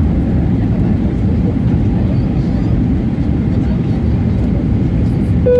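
Steady low cabin roar of an Airbus A320-200 in flight: engine and airflow noise heard from inside the passenger cabin.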